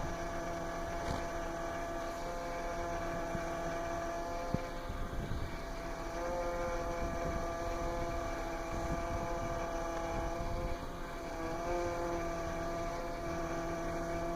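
Honda Accord V6 running, with a steady whine from its power steering pump over the engine's low rumble. The whine shifts pitch slightly a couple of times.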